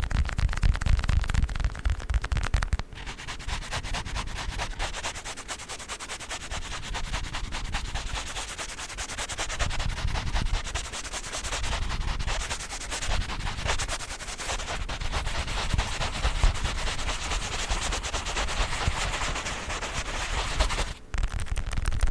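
Small children's ball scratched, rubbed and tapped right at the microphone: a dense, fast crackle of scratches and taps with no pause, heavier and thuddier for the first few seconds, and briefly cut off near the end.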